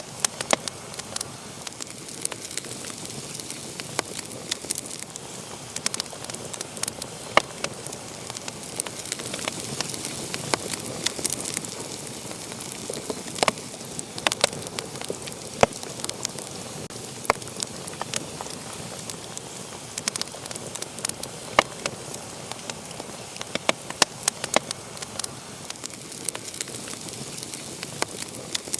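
Wood fire burning in a fireplace: a steady soft hiss with frequent irregular sharp crackles and pops.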